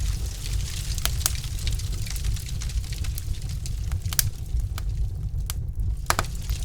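Wood fire burning in a fireplace: a steady low rumble with scattered sharp crackles and pops from the logs, a few louder pops about a second in, about four seconds in and near the end.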